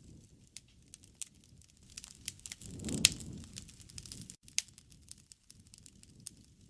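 Wood fire crackling, with scattered sharp pops over a low rumble of flame. The rumble swells about three seconds in, with one loud pop.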